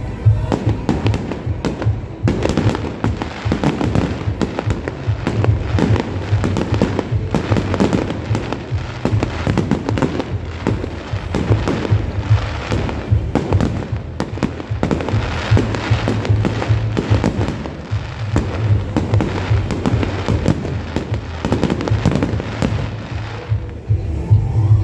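Fireworks display: a dense, irregular run of bangs and crackling shell bursts, with music playing underneath. The bursts thin out near the end.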